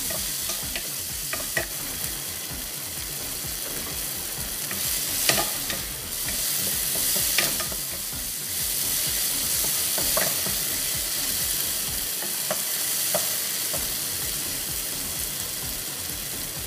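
Sliced onion and tomato sizzling in hot oil in a pan, stirred with a wooden spatula that scrapes and knocks sharply against the pan a few times. The sizzle grows a little louder in the middle.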